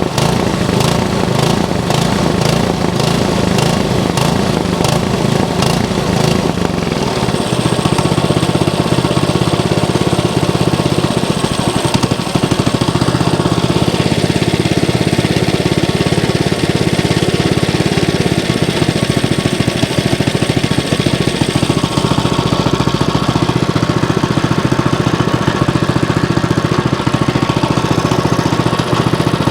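Small single-cylinder go-kart engine running with its carburetor freshly cleaned, pulsing about twice a second for the first several seconds and then settling into a steadier run.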